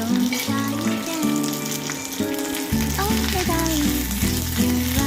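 Food frying in a pan with a steady sizzle of hot oil, under background music whose bass line comes in a little past halfway.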